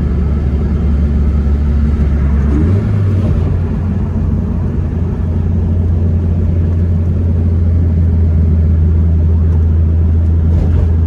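Car engine running with a loud, steady low drone. Its pitch steps up slightly about three seconds in, then holds.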